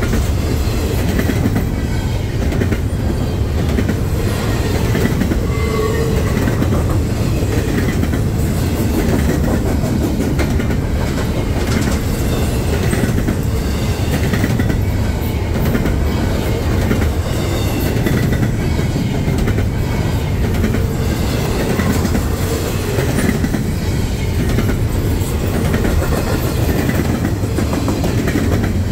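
Freight train cars rolling past, their wheels clacking steadily over the rail joints, with a few brief faint wheel squeals.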